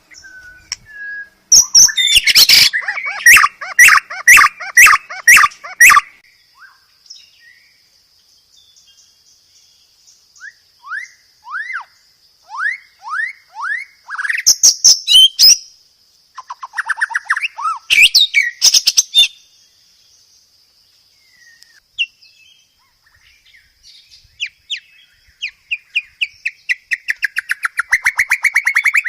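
Songbird song from a masteran recording: loud, rapid series of repeated notes in bursts, with quieter runs of downward-sweeping whistled notes between them and a faint steady high whine under the middle stretch.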